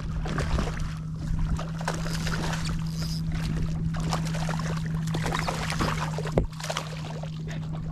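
Water splashing and trickling around a kayak, with scattered small knocks and a steady low hum underneath.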